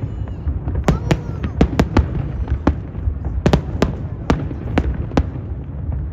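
Aerial fireworks display: shells bursting in about a dozen sharp bangs at irregular intervals over a continuous low rumble, with faint whistles near the start.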